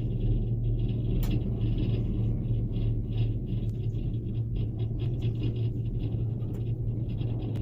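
Cable car running with a steady low mechanical rumble and hum. Faint high squeaks come and go, and there are a few sharp clicks.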